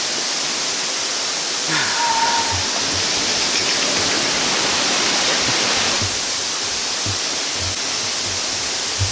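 Waterfall rushing steadily, a loud, even wash of falling water. A brief short tone sounds about two seconds in.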